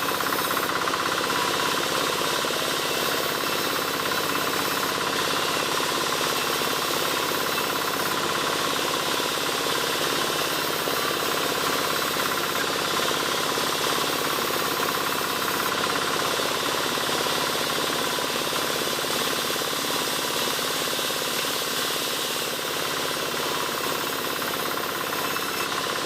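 Large wood-sawing machine running steadily, sawing albasia wood into roof battens, with a dense, unbroken mechanical din.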